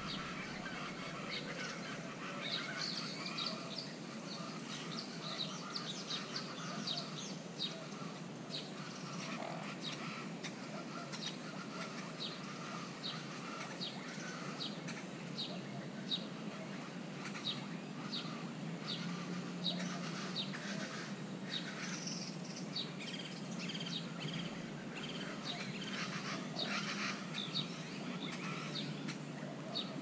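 Birds calling: a steady run of short, sharp chirps, a few each second, over a steady low hum.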